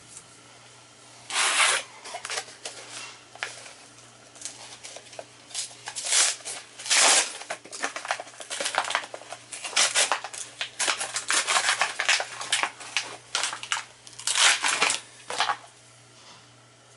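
Irregular scraping and rustling strokes, many in a row, from hand work on the furnace blower's motor shaft and pulley, most likely the shaft being rubbed clean of a burr left by the spun pulley.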